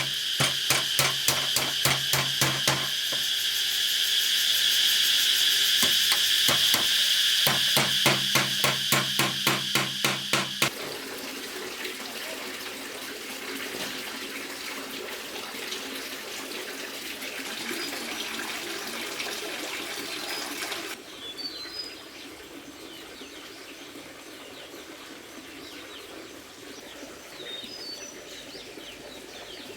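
A fast rhythmic pulse, about four beats a second, over a steady high tone for roughly the first ten seconds. Then an even wash that sounds like running water, which drops in level about twenty seconds in, while birds chirp in short high calls through the latter part.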